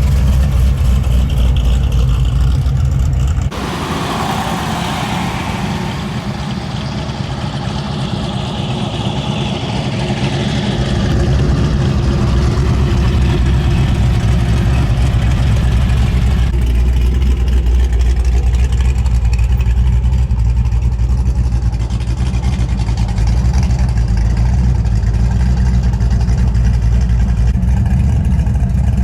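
Car engines running as show cars arrive: a deep steady engine drone, broken a few seconds in by a vehicle passing with falling pitch, then deep steady engine running again.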